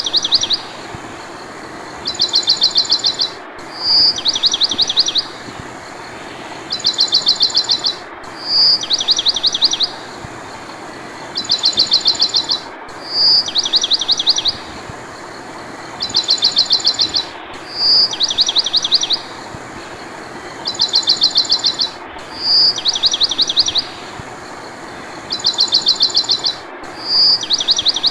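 Birdsong on a repeating loop: a short high whistle followed at once by a quick trill of chirps, then a second trill, the pattern coming round every four to five seconds over a steady hiss.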